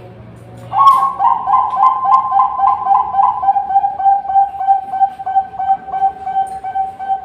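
Zebra dove (perkutut) cooing: a long run of quick, even staccato notes, about three a second. The first notes are a little higher in pitch before the song settles to a steady pitch.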